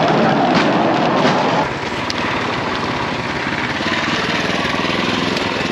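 Small motor of a bamboo train (norry) running as the platform travels along the rails; the sound is steady, and it eases off slightly about a second and a half in.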